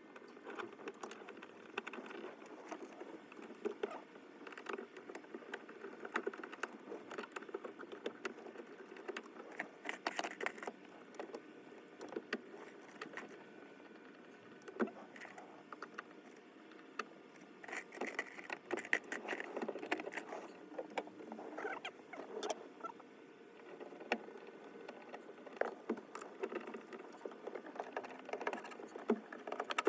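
Irregular small clicks, taps and rattles of hand work on parts, coming in scattered clusters.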